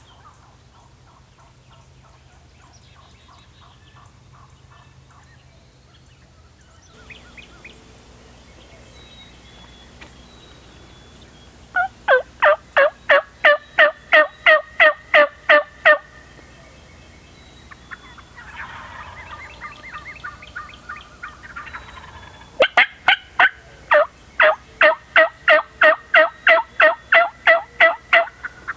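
Wild turkey hen yelping: two long runs of loud, evenly spaced yelps at about four a second, the first about twelve seconds in and the second from about twenty-three seconds on, with softer calling between them.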